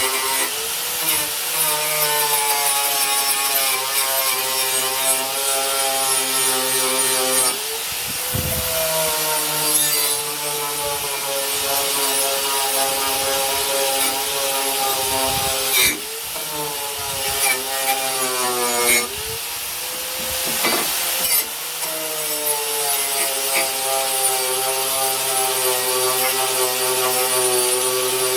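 Powered wire brush scrubbing a steel meat cleaver: a steady motor whine over a harsh scratching hiss, the pitch sagging several times as the blade is pressed into the brush and loads the motor.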